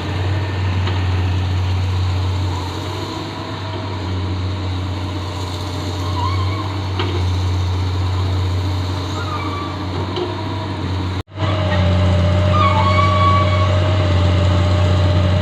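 Excavator diesel engine running steadily, with a faint steady whine above the low drone. The sound cuts out for a moment about eleven seconds in, then resumes a little louder.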